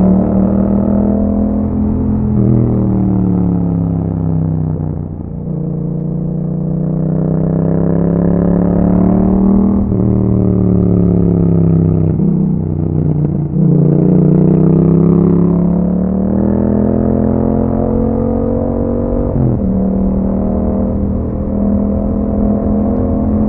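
Yamaha MT-07 parallel-twin engine through an aftermarket Akrapovic exhaust, under way. Its pitch repeatedly climbs under throttle and falls back as the rider eases off, drops suddenly about 19 seconds in, then holds steadier.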